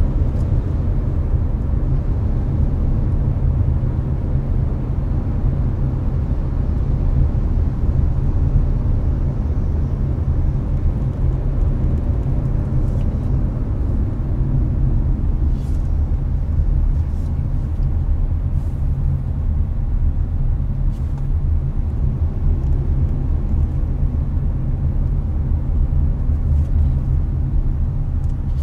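Hyundai Avante cabin at steady highway cruising speed: a constant deep rumble of road and tyre noise with the engine, and the air conditioner blowing.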